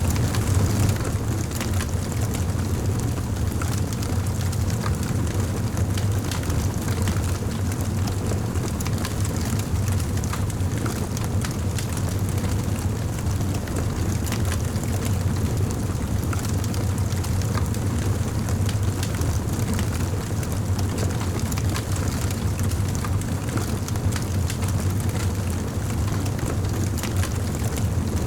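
Wood fire burning in a fireplace: a steady low roar of flames with frequent small crackles and pops throughout.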